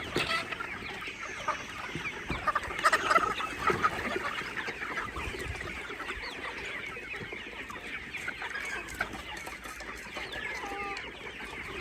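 A flock of baby chicks peeping, many short calls overlapping without pause, louder near the start and again about three seconds in.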